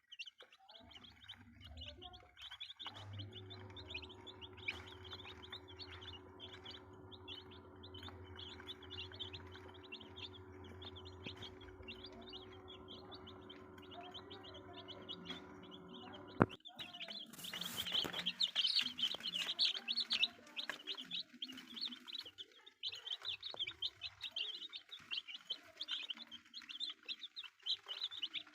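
A brood of Gimmizah chicks peeping continuously, many high chirps overlapping. A steady low hum runs underneath for the first half and stops with a click about sixteen seconds in, after which the peeping grows louder.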